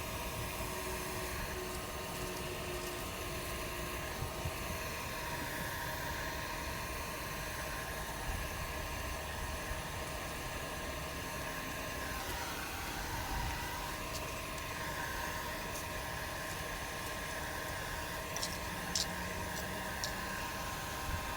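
A steady mechanical hum and hiss, with a few faint clicks near the end.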